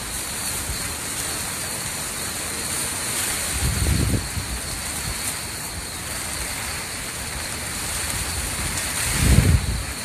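Hurricane Irma's storm: a steady hiss of wind-driven rain, with two short low rumbling gusts, one about four seconds in and one near the end.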